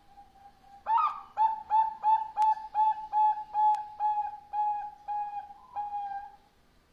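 Zebra dove (perkutut) calling: a faint held note, then about a dozen short, clear cooing notes at roughly two a second, fading slightly toward the end.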